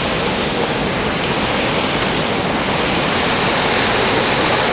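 Loud, steady rush of mountain water pouring over rocks.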